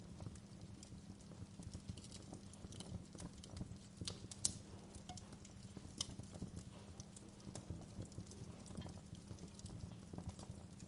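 Wood fire crackling: a steady low rumble of burning with frequent irregular snaps and pops, two louder pops around four and six seconds in.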